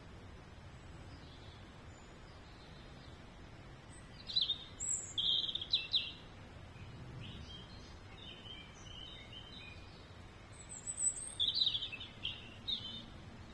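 Songbird singing in two short bursts of high-pitched song, one about four seconds in and another about ten seconds in, with fainter chirps between them over a low background hiss.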